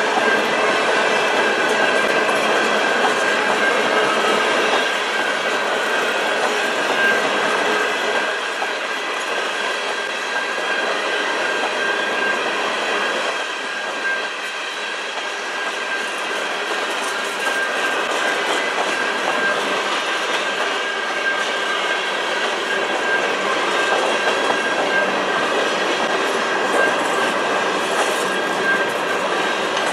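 Canpotex covered hopper cars of a CN potash freight train rolling past a level crossing: steady wheel-on-rail noise from the passing cars, with a thin high-pitched ring over it.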